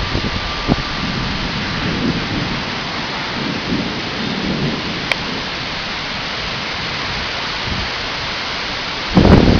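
Steady rain hiss in a severe thunderstorm, with soft low rumbles of thunder through the middle. A sudden loud rush of noise near the end.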